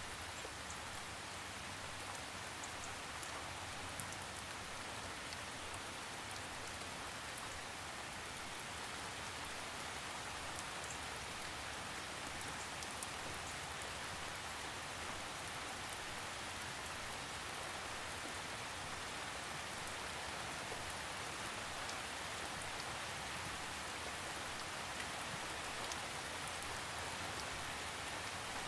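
Steady rain falling on a surface, an even hiss with scattered small drop ticks, no thunder.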